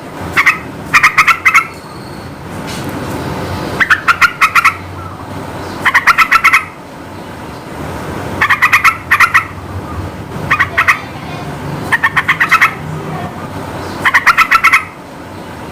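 Yellow-vented bulbul (trucukan) singing: short phrases of quick, evenly spaced chattering notes, repeated every second or two, over a steady background hiss.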